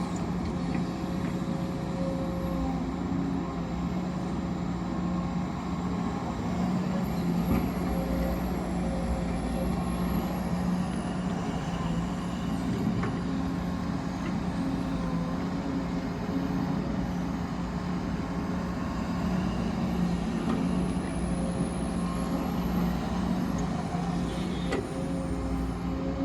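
Heavy machinery engines running steadily at a constant pace, a low continuous hum with a steady higher tone over it and a few faint clicks.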